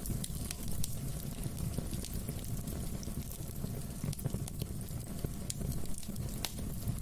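Wood fire burning in a fireplace, crackling steadily with scattered sharp pops over a low rumble.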